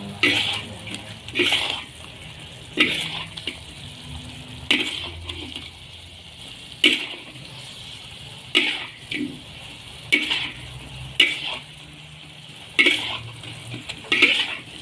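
A metal spatula scraping and turning sweet potato slices frying with brown sugar in a hot pan: about a dozen sharp scrapes, one every second or so, each followed by a short burst of sizzling, over a steady low sizzle.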